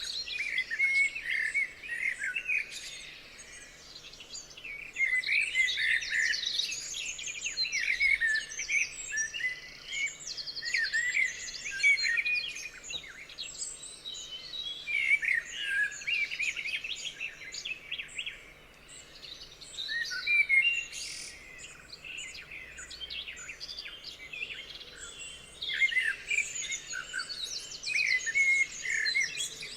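Several songbirds singing together, overlapping chirps and rapid trills in phrases a few seconds long with brief lulls between them.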